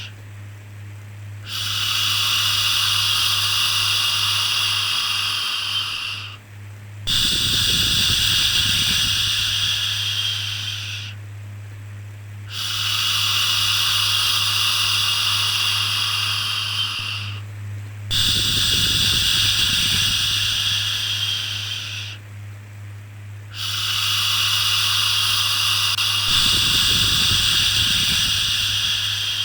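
Repeated 'shhh' shushing to calm a baby: long hissing shushes of about four to five seconds each, with a pause of about a second between them, over a steady low hum.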